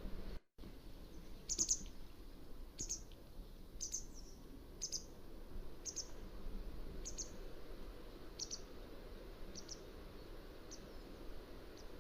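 Mountain wagtail calling: a series of about ten short, high call notes, roughly one a second, growing fainter toward the end, over a steady background hiss.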